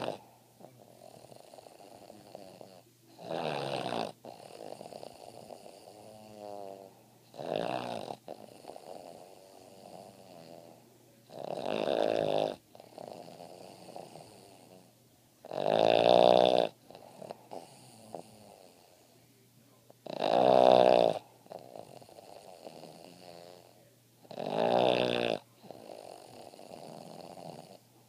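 Boston terrier snoring: a loud snore about every four seconds, six in all, with softer breathing sounds between them.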